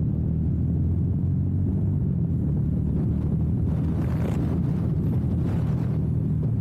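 Honda Super Cub C125 single-cylinder engine running steadily while riding, with gusts of wind noise on the microphone around the middle.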